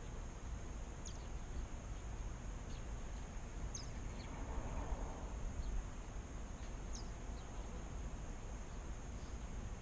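Faint outdoor background: a steady low rumble and a thin, steady high whine, with a few short, high falling chirps.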